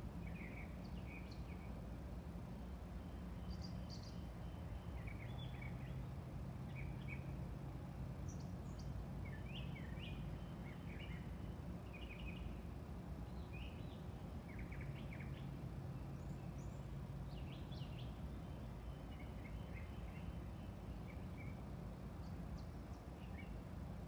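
Several small songbirds chirping and singing in short bursts and brief trills throughout, some notes high and thin. A steady low hum sits underneath.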